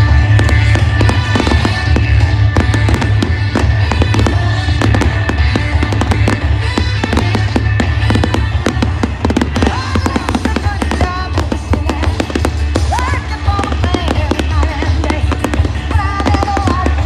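Fireworks bursting in quick succession, a dense run of bangs and crackles, over loud music with a heavy bass.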